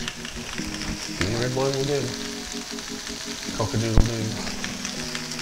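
Beef chunks, onions, potatoes and carrots sizzling steadily in a stainless steel stockpot, browning ahead of the red wine. There is a single sharp knock about four seconds in.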